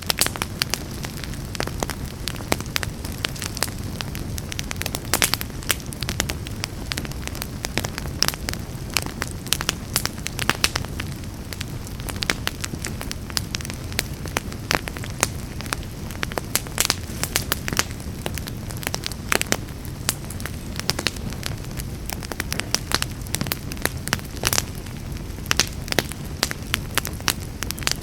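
Fire burning in a fireplace, crackling: frequent irregular sharp pops and snaps over a steady low rumble of the flames.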